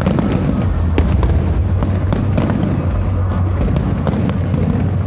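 Aerial fireworks display going off: a dense low rumble of shell bursts with many sharp crackles and pops scattered irregularly through it.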